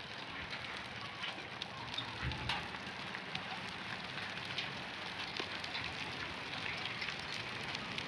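Steady rain falling on surfaces, an even hiss with scattered drop ticks and a couple of brief louder taps a little over two seconds in.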